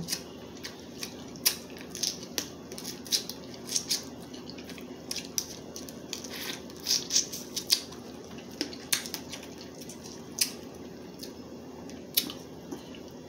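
Crab leg shells being cracked and broken apart for eating: irregular sharp cracks and clicks, a few a second, over a steady low background hum.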